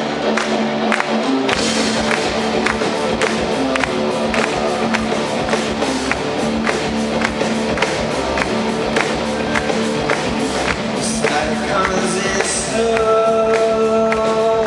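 Live rock band playing the opening of a song: a steady drum beat over sustained guitar chords, with the low end filling in about a second and a half in.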